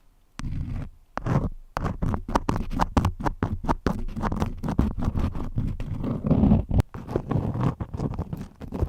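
Crayons scratching and scraping in quick, irregular strokes, with many small clicks and taps, pausing briefly about a second and a half in.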